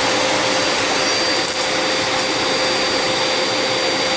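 TriStar MG2 canister vacuum running steadily: an even rush of air with a steady whine from its motor.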